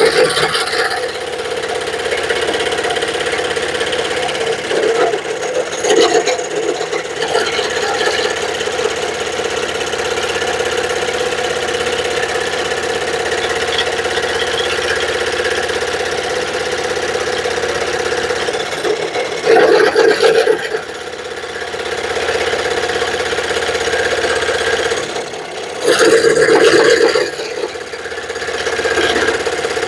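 Power saw running steadily while cutting wood, with two louder stretches of cutting about 19 and 26 seconds in.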